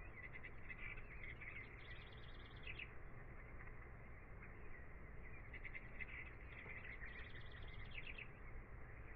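Birds chirping in two spells of rapid, trilling chirps, one from the start to about three seconds in and another from about five and a half to eight seconds, over a steady low background noise.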